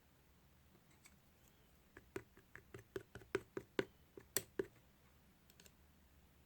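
Clay-topped slime being pressed and squished by hand, giving a quick run of small sharp pops and clicks, about five a second, from about two seconds in until just under five seconds.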